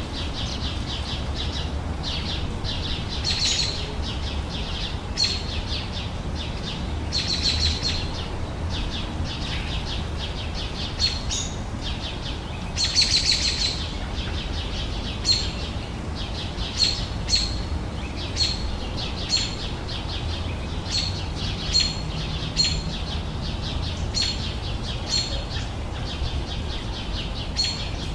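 Garden birds singing: short high chirps repeated about once a second, broken by a few longer rapid trills, over a steady low background rumble.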